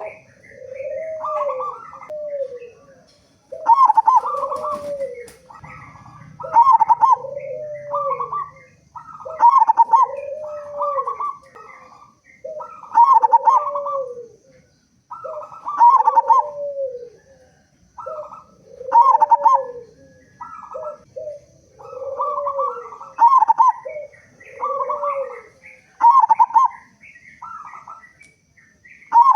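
Zebra dove (local perkutut) cooing its song: the same phrase of short, pulsing coos repeats about every three seconds, each phrase a higher note followed by lower, arched ones.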